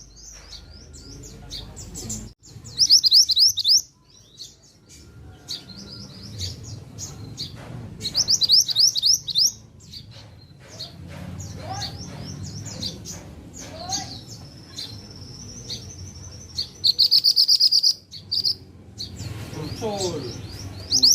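Mantenan songbird singing: loud runs of quick, high trilled notes about three, nine and seventeen seconds in, with softer scattered chirps between, over a low steady hum.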